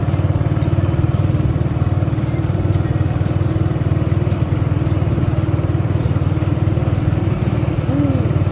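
Diesel engine of a Mitsubishi 190 PS truck carrying an 18-ton load, running steadily at low revs with a fast, even pulsing drone.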